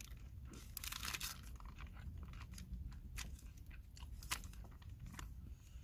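A person chewing a mouthful of gimbap with Spam and stir-fried kimchi close to the microphone: irregular soft crunches and mouth noises.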